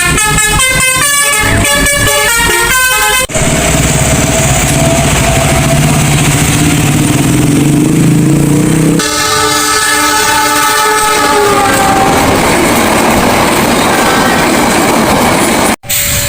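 Vehicle and train horns in cut-together segments: first a quick run of stepping multi-note horn calls, then a long held horn blast over a low rumble, then a horn that slides down in pitch.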